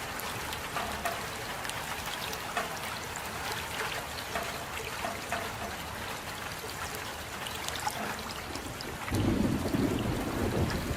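Steady rain with scattered close drop ticks; about nine seconds in, a low rumble of thunder swells up and carries on.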